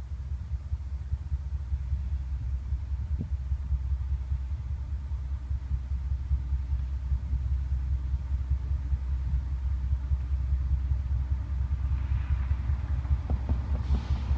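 Low rumble of an approaching CSX freight train's diesel locomotives, growing slowly louder.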